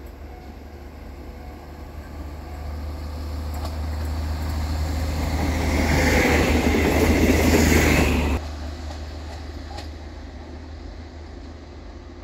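A diesel passenger railcar approaching and passing close by, growing steadily louder for several seconds, then cut off abruptly about eight seconds in; a quieter steady rumble follows.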